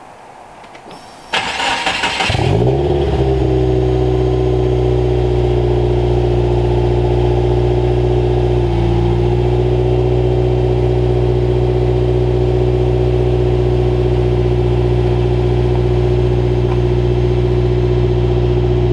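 Subaru WRX's turbocharged flat-four starting through a newly fitted Agency Power cat-back exhaust with titanium quad tips: a brief crank and catch about a second in, then the engine settles into a steady idle with a deep tone.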